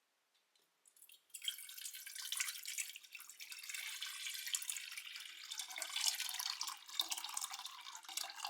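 Water pouring or running in a steady stream, starting about a second in and stopping abruptly at the end.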